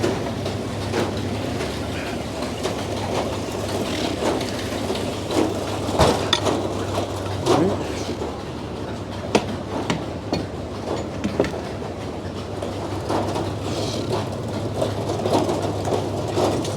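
Frick sawmill running with a steady low hum, broken by irregular clanks and knocks as the mill is worked between cuts.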